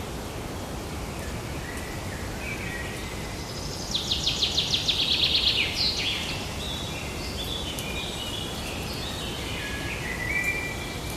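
Forest ambience: songbirds calling over a steady background hiss. About four seconds in, a bird gives a loud, fast trill of evenly repeated high notes lasting about two seconds, followed by shorter, lower chirped phrases.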